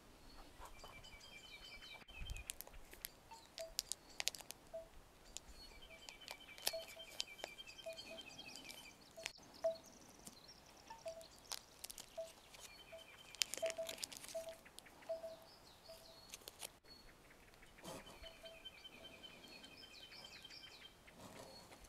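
Forest birdsong: a songbird repeats a short trilled phrase of quick notes every few seconds, while another call sounds as a series of short low notes. Light clicks and taps are scattered throughout.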